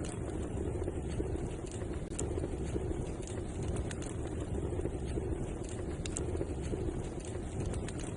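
Wood fire burning in a fireplace: a steady low rumble of flame with a few sharp crackles and pops scattered through it.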